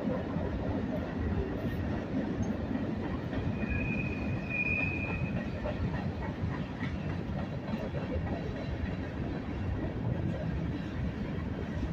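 Freight train rolling past on its rails, a steady rumble of wheels and cars. A brief high-pitched wheel squeal comes about four seconds in.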